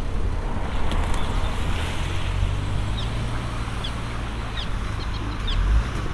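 Steady low rumble of road traffic, with a vehicle's engine note rising near the end. Short, high, falling bird chirps come several times from about halfway in.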